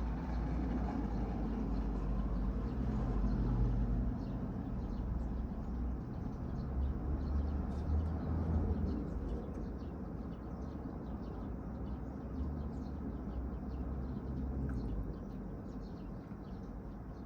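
A car engine rumbling low, swelling twice in the first half and then fading away, with faint bird chirps in the background.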